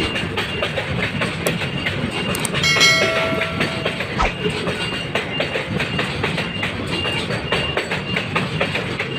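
A freight train running past, its wheels clattering over the rail joints. A short horn blast sounds about three seconds in.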